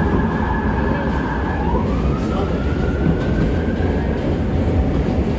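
R143 subway car running on the J line, heard from inside the car: a steady low rumble of wheels on rail under the whine of its AC traction motors. The whine rises in pitch about two seconds in.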